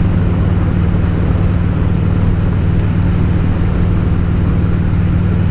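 V-twin motorcycle engine running at a steady cruise, its pitch unchanging, with wind and road noise over it.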